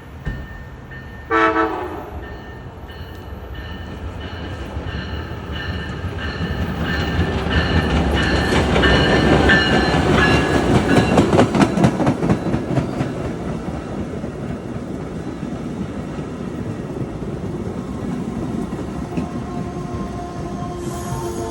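A train passing: a short horn blast about a second in, then the rumble of the train building to its loudest about ten seconds in, with wheels clacking rapidly over rail joints, before settling to a steady run. Another tone starts near the end.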